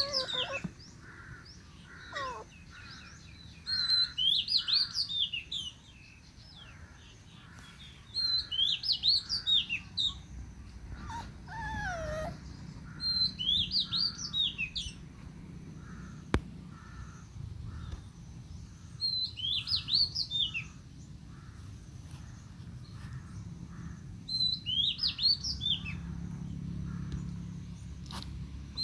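Birds singing: one bird repeats a short, high chirping phrase about every five seconds, over a steady run of softer, lower notes, with a single falling call about twelve seconds in.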